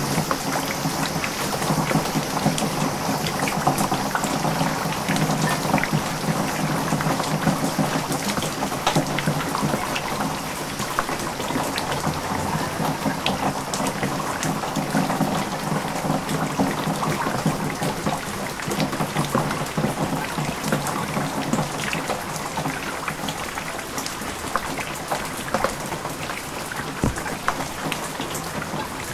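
Heavy typhoon rain pouring down onto ground and puddles, with rainwater running across the ground and many sharp drop ticks among the steady hiss. The level eases slightly toward the end.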